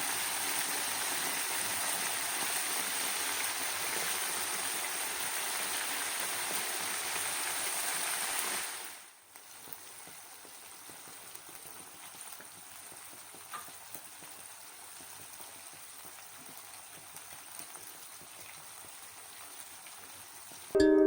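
Food sizzling in hot oil: a steady hiss that drops to a quieter sizzle after a cut about nine seconds in.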